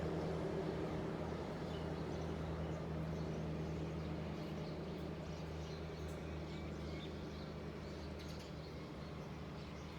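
A train's low rumble with a steady hum, slowly fading as it moves away, while birds chirp.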